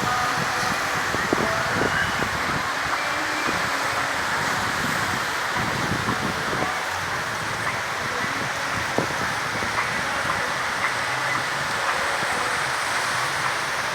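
Steady rushing outdoor noise by the sea: wind on the microphone over a continuous wash of surf, with a few faint clicks.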